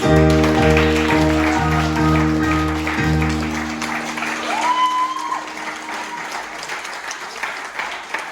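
Closing note of a song sung to guitar, held and ringing out for about four seconds while the audience starts clapping. The applause carries on after the music stops, with one rising cheer about five seconds in.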